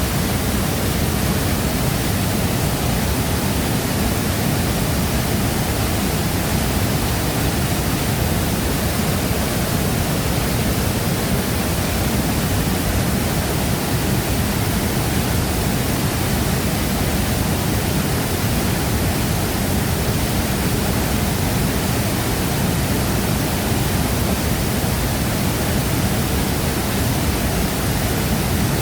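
Waterfall: a large volume of water falling and crashing into a plunge pool, a steady, unbroken rush with a deep low rumble.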